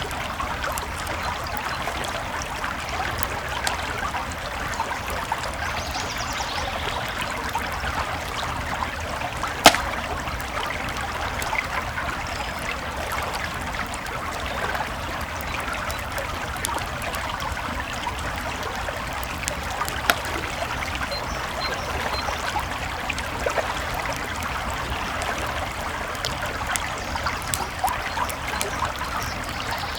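A creek flowing steadily over stones, mixed with a campfire crackling and popping in scattered sharp clicks. One loud pop comes about ten seconds in, and another about twenty seconds in.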